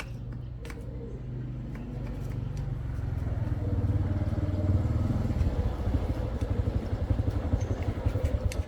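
Small single-cylinder motorcycle engine running, most likely the 2004 SYM's. It grows louder over the first few seconds, then runs with a fast, even pulsing beat before cutting off suddenly at the end.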